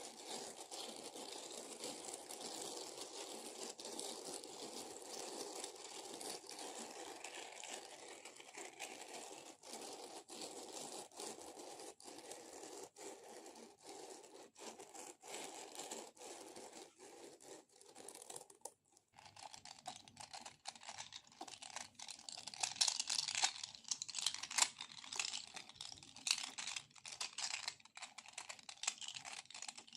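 Sticky peeling sounds: a continuous crackling, tearing texture as a tacky surface is pulled apart, with brief breaks. About two-thirds of the way through it changes abruptly to quick, light tapping and clicking.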